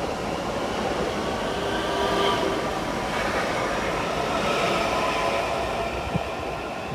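A train moving along the track, its steady rolling noise carrying a few faint high tones. There is a short knock near the end.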